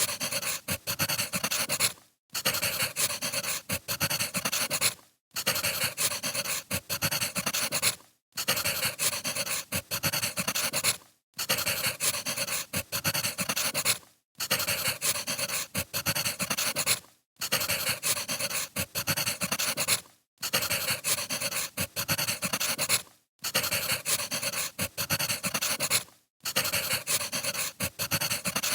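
Firewood crackling and hissing as it burns, played as a short repeating loop that drops out for a moment about every three seconds.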